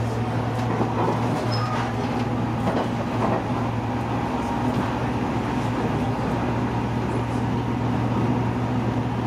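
Resort Shirakami train running at speed, heard from inside a passenger car: a steady running rumble with a low, even hum.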